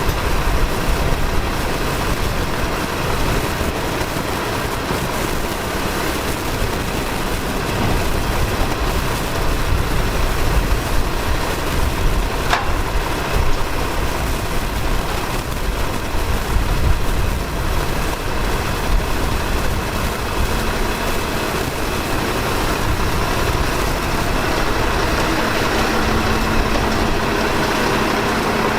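Maxon MSL automated side-loader garbage truck's engine running steadily. There is a single sharp click about halfway through, and a steady low hum joins about two-thirds of the way in.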